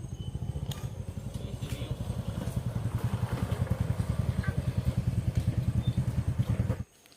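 Small engine running with a rapid, even pulse, growing louder, then cutting off abruptly near the end.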